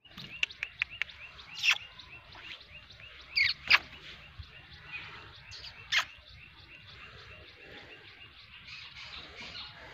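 Small birds chirping: a steady run of short, high, repeated chirps, with four louder calls that sweep quickly downward in pitch and a few sharp clicks in the first second.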